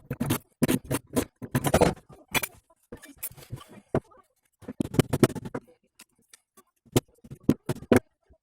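Hand tools and metal parts knocking, clicking and scraping in irregular bursts during repair work on a car's front driveshaft.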